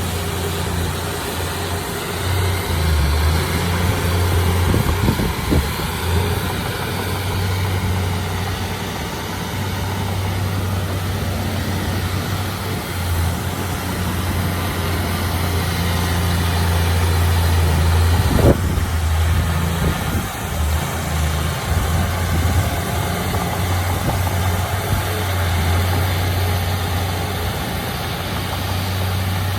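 A heavy diesel engine of earthmoving machinery runs steadily with a deep, even hum. A single sharp knock comes about two-thirds of the way through.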